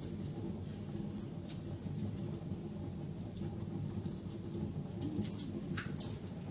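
Wood fire crackling: scattered sharp pops and snaps over a steady low rumble of burning, with one louder pop near the end.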